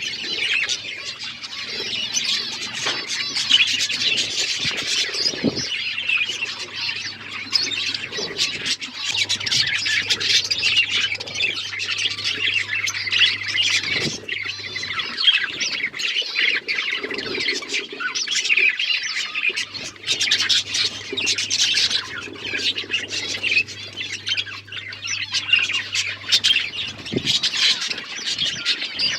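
Caged budgies and lovebirds chattering continuously, a dense mix of squawks and chirps.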